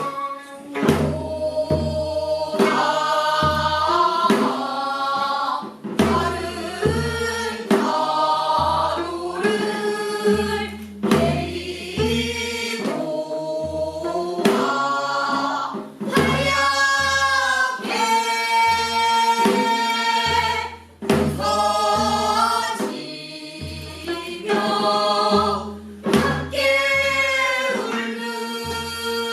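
Several pansori singers singing together in a sustained group line, accompanied by regular strokes of the buk barrel drum.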